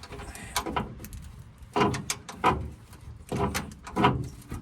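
Hand wrench clanking against a rusty nut and bolt on the truck's spare tire winch mount as it is worked loose: about six irregular, sharp metallic knocks.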